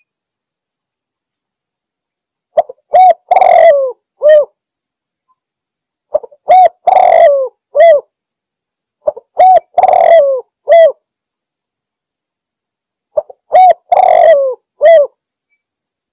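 Spotted dove cooing its song, four phrases a few seconds apart, each a short run of low, pitched coos. It is the calling song used as a lure to draw in a rival dove.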